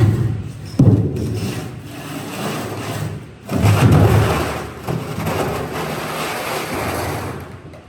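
Heavy thuds, one about a second in and a louder one at about three and a half seconds, each followed by a rumbling, scraping noise that fades near the end.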